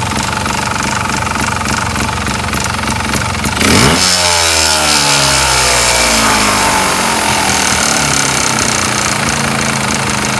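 2007 Sherco ST250 trials motorcycle's two-stroke single-cylinder engine idling with a rapid rattling knock that the owner suspects is piston slap. A few seconds in it is blipped once sharply, then the revs fall slowly back to idle.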